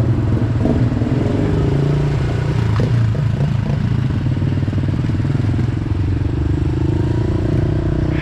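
Pit bike's small single-cylinder engine running steadily under way, its pitch drifting slightly with the throttle, with a couple of light knocks.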